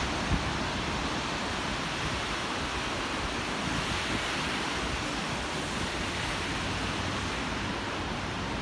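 Steady rushing of the Tama River in flood, its muddy water high and fast after typhoon rain.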